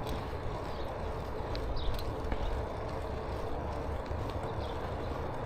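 Bicycle rolling along a trail: steady tyre and wind rumble, with a few light clicks and rattles.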